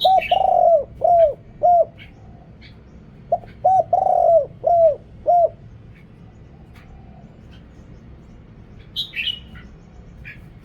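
Spotted dove cooing: two phrases of about five deep coos each, the second starting about three and a half seconds after the first. A small bird chirps at the start and again about nine seconds in.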